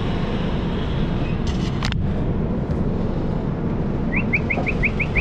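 Passenger train running, a steady rumble heard from an open coach doorway. Near the end there is a quick run of about eight short rising chirps.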